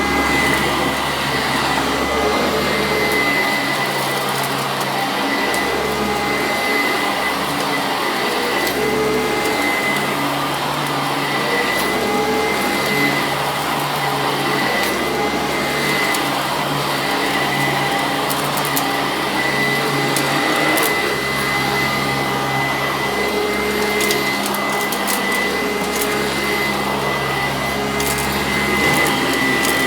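Sanitaire SC886 upright vacuum cleaner running steadily while vacuuming carpet, with a steady high whine over the rush of air.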